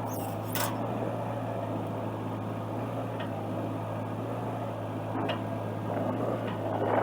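Excavator's diesel engine running steadily, with a few short clicks or knocks scattered through.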